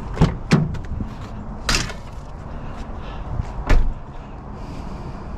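Sharp knocks and a short scrape from scrap being handled, two quick knocks early on and the loudest knock just before four seconds in.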